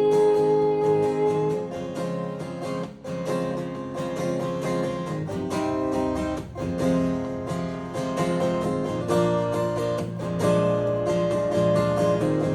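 Acoustic guitar playing an instrumental passage of a slow pop ballad, plucked and strummed chords changing every second or two. A held note rings out over the first second or so.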